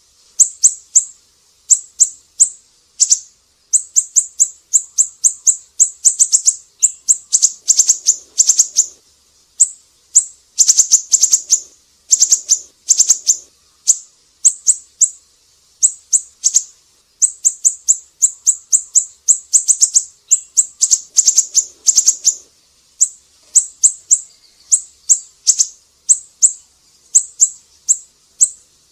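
Siri-siri songbird singing vigorously: a rapid, high-pitched run of short sharp chirps, delivered in quick series separated by brief pauses.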